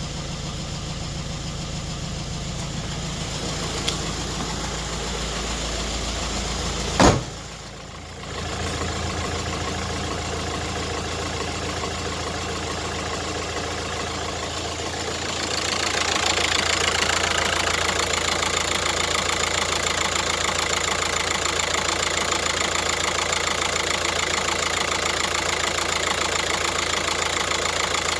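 Cadillac engine running steadily, with one sharp loud knock about seven seconds in followed by a brief drop in level. About halfway through it gets louder, with more hiss and high-pitched sound, and runs on that way.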